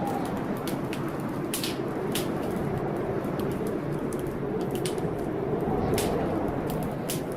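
Heavy blizzard wind rushing steadily, swelling and easing slowly, while a fireplace fire crackles with sharp, irregular pops.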